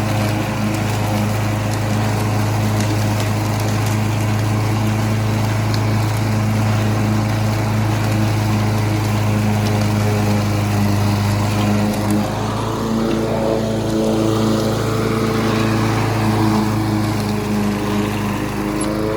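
Gasoline lawn mower engine running steadily while mowing. Its note wavers a little in the second half.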